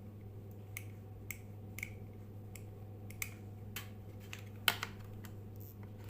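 Steady low electrical hum with a dozen or so irregular small clicks and taps over it, the sharpest a little over three-quarters of the way through.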